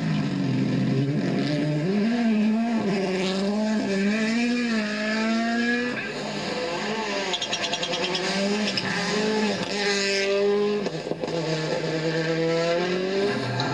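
Rally car engine at full attack, its note climbing and dropping repeatedly through gear changes and lifts for corners, with some tyre squeal.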